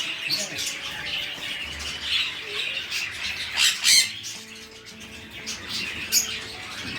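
A flock of small parrots chattering continuously in an aviary, with several loud, sharp squawks about halfway through and near the end.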